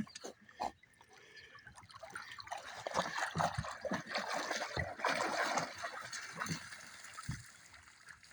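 Water splashing and trickling, loudest from about three to six seconds in, with a few light knocks.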